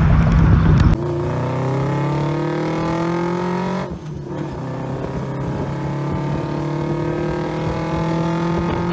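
Car engine accelerating hard, its pitch climbing, dropping at a gear change about four seconds in and climbing again. A loud low rumble cuts off about a second in, before the acceleration.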